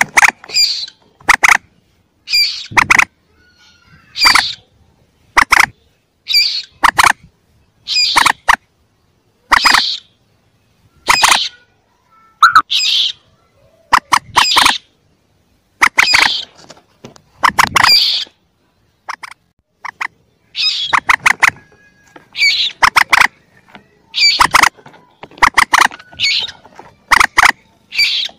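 Young common moorhen calls from a looped lure recording: short bursts of several sharp, squawking notes, about one burst every second and a half, repeating over and over.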